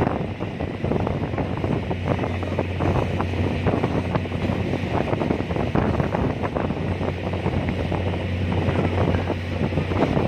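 Strong wind buffeting the microphone in rough gusts over the steady low drone of a ferry's engine.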